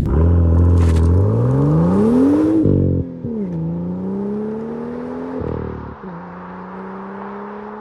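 BMW M2's stock N55 turbocharged straight-six accelerating through the gears. The engine note climbs, falls at an upshift about three seconds in, climbs again, and after a second upshift about six seconds in settles into a slow, steady rise.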